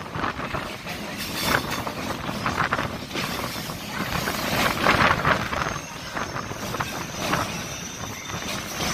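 Chennai MRTS electric local train running, heard from its window: a rushing rumble of wheels on track that swells and fades every second or two. About halfway through a thin high steady whine sets in as it runs alongside a station platform.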